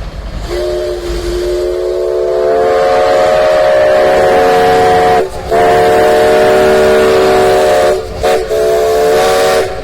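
Steam whistle of the 1950 Mallet 2-6-6-2 locomotive No. 204 blowing a loud multi-note chime. It sounds two long blasts, a very short one, then another long one, its pitch sliding up slightly as the first blast opens.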